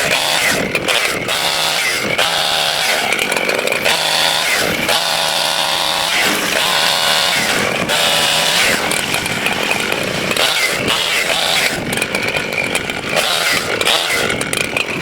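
Gasoline chainsaw running hard, its engine note rising and falling again and again as it revs and works through dead oak wood.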